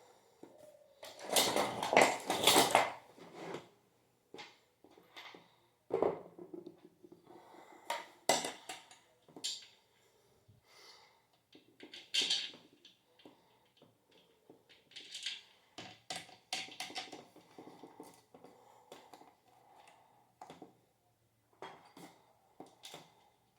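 Clinks, clicks and knocks of metal parts and screws being handled while fitting a ceiling fan blade, with a louder flurry of rattling about two seconds in.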